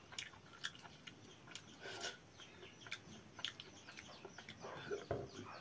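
Wet chewing and lip-smacking of a mouthful of water-soaked rice (pakhala) eaten by hand, in short clicks and squelches.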